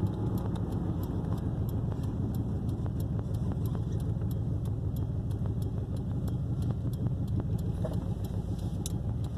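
Steady low rumble of engine and road noise inside a moving vehicle's cabin, with faint, quick, regular ticking over it.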